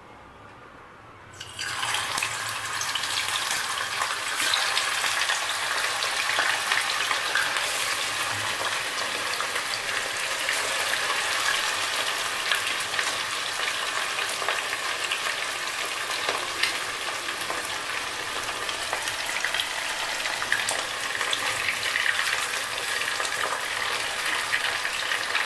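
Raw chicken pieces frying in hot oil in a kadai: a sudden onset of steady, crackling sizzle about a second and a half in as the pieces go into the oil, continuing evenly throughout.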